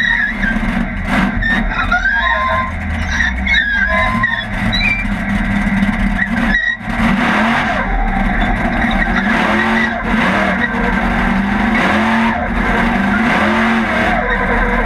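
Race car engine running hard and revving up and down over and over, heard from inside the stripped cockpit, with high squeaks over the first few seconds.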